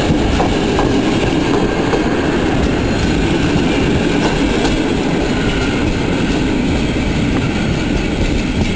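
Passenger train coaches rolling past at speed: a steady rumble of steel wheels on rails, with a few faint clicks over the rail joints.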